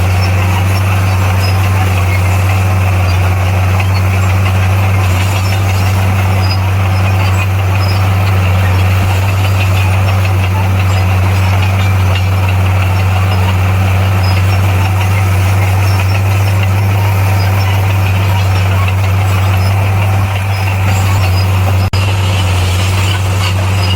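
Heavy earthmoving machine's diesel engine, most likely the bulldozer's, running steadily under load as a low, even drone, with a brief drop near the end.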